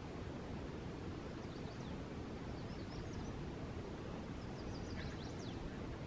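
Quiet outdoor ambience with a steady low hiss, and faint high bird chirps: a couple about a second and a half in, a few near three seconds, and a quick run of them around five seconds.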